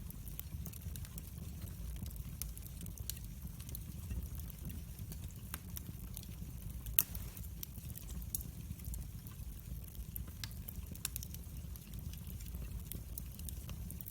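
Wood fire in a fireplace crackling, with scattered sharp pops over a steady low rumble of the flames; one louder pop comes about halfway through.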